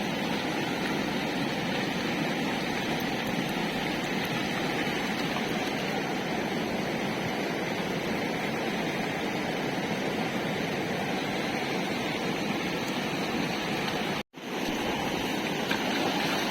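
Steady rush of a fast-flowing flooded river, an even roar of water that cuts out briefly for a moment near the end.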